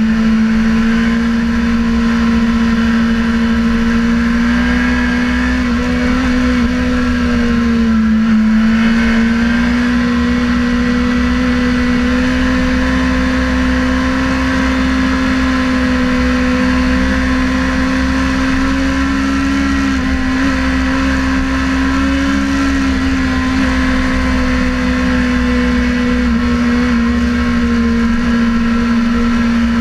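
Sportbike engine running hard at high, fairly steady revs. Its pitch dips briefly about eight seconds in, then climbs slowly again.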